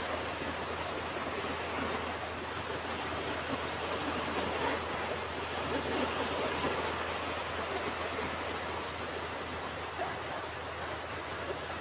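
Ocean waves breaking and washing on a beach: a continuous surf wash that swells and eases gently.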